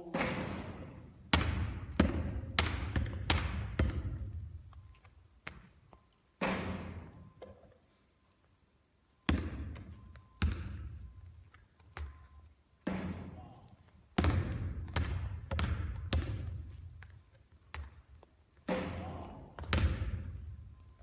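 A basketball bouncing and landing on a court floor in runs of several sharp thuds, each trailing off in echo, with short pauses between runs.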